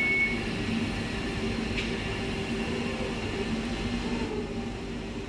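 Electric multiple unit standing at the platform, its onboard equipment humming steadily. A high beep cuts off just at the start, and there is a faint tick about two seconds in.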